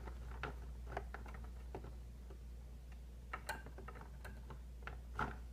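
Scattered light clicks and taps as small scale-model aircraft parts are handled and pressed together, about a dozen irregular ticks over a faint steady low hum.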